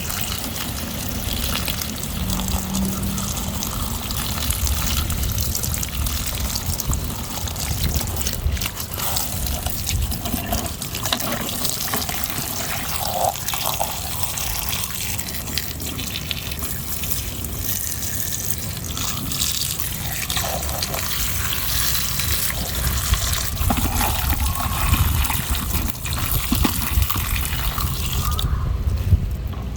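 Water running and splashing steadily as muddy plastic toys are rinsed clean.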